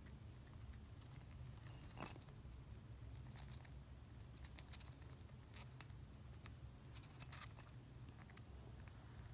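Hamster nibbling at a treat: faint, irregular little clicks of gnawing and chewing, with one sharper click about two seconds in, over a low steady hum.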